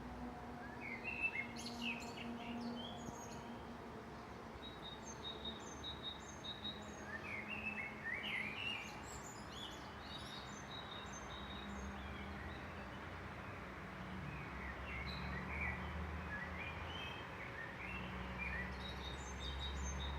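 Several songbirds singing together in a forest. Short chirps, trills and runs of repeated high notes overlap, over a steady low hum that grows a little louder in the second half.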